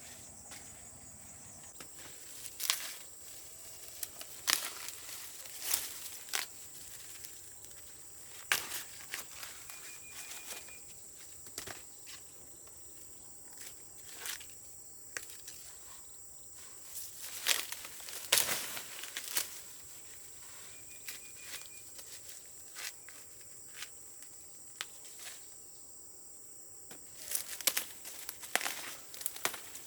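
Irregular crackling and snapping of dry plant material, like corn stalks and husks being handled and broken, over a steady high insect drone.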